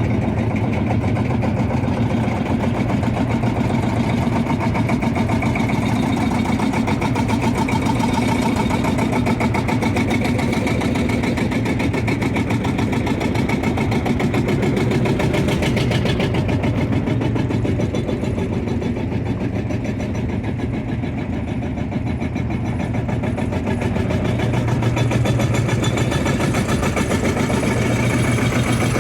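Tractor engine running steadily, with a fast, even pulse; it eases slightly for a few seconds about three quarters of the way through.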